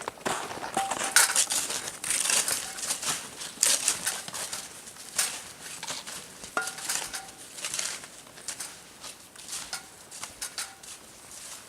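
Metal cookware and utensils clinking and scraping irregularly, with crinkling in between and a few short ringing clinks; the handling thins out toward the end.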